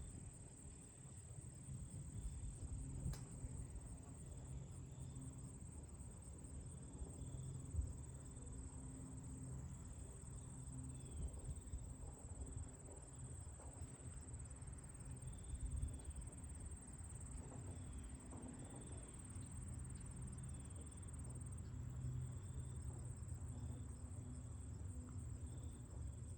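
Crickets chirping in a continuous high, finely pulsing trill, with fainter short repeated chirps at a lower pitch, over a low rumble of wind.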